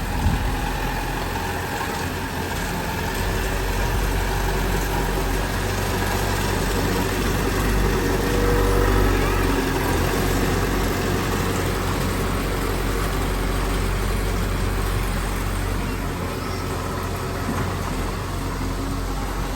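Heavy diesel construction machinery running steadily, with a sharp knock just after the start.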